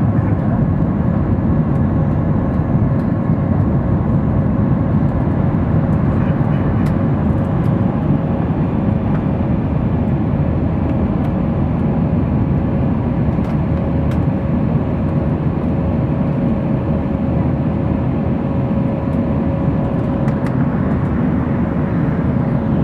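Cabin noise aboard an Airbus A319 on takeoff: the twin jet engines running at high thrust under a steady rush of air noise, with a constant hum over it.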